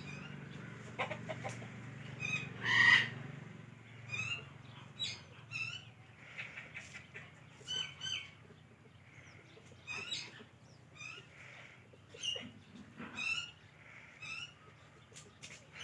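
Pet parrot making a series of short, high chirps and squawks, about one a second, with one louder squawk about three seconds in.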